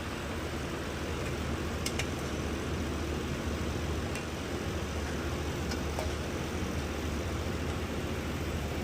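Steady low mechanical hum of running shop machinery, with a few faint clicks about two seconds apart.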